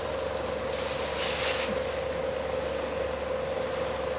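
Chicken simmering and sizzling in a pan on a gas stove as spice powder is sprinkled over it, with a steady hum underneath. A brief louder hiss comes about a second in.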